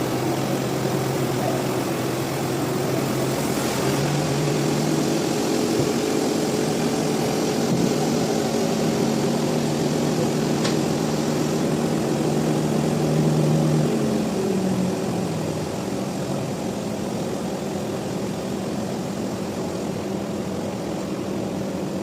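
A large engine running steadily. Its pitch steps up about four seconds in and drops back lower around fifteen seconds in.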